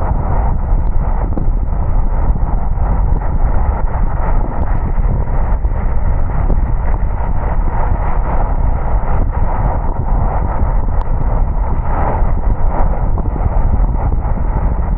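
Steady, muffled rumble of a car driving on wet roads: tyre and road noise with the low drone of the moving car, unchanging throughout.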